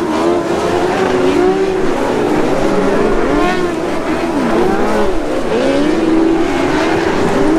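Several TQ midget race cars lapping a speedway in a heat, their engines overlapping and rising and falling in pitch as they rev through the turns and pass by.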